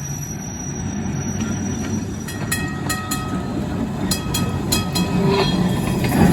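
Streetcar running sound: a steady low rumble, with a series of short ringing tones starting about two and a half seconds in.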